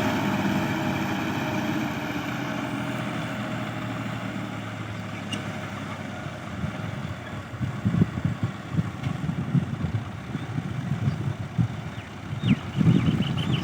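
Tractor engine running steadily, growing fainter over the first several seconds. It gives way to irregular low rumbling noise.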